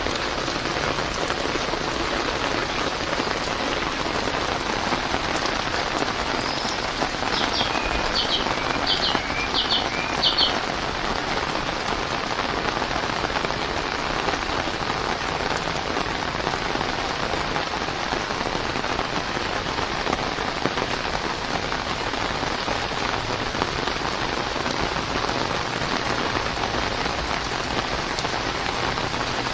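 Heavy rain falling steadily, a dense even hiss. About eight to ten seconds in, a quick run of five or six high-pitched chirps sounds over it.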